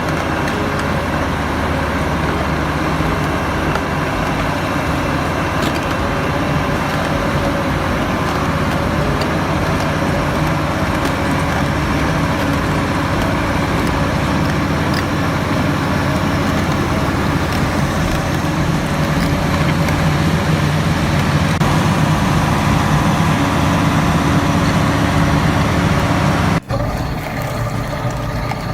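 Heavy diesel vehicle engines running steadily with a deep hum. The sound cuts abruptly near the end to a different, similar engine sound.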